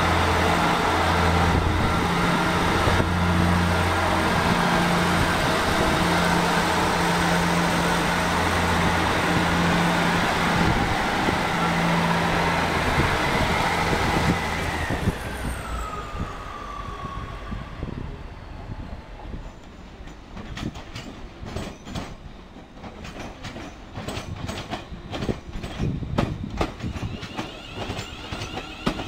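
Class 158 diesel multiple unit passing with its underfloor diesel engines running steadily and wheel and rail noise. About halfway a whine falls in pitch and the sound drops away. Then, more quietly, a Class 380 electric multiple unit rolls slowly, its wheels clicking over rail joints.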